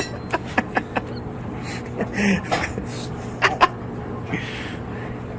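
Scattered sharp clicks and knocks of tools and parts being handled, over a steady low hum, with two short bursts of hiss.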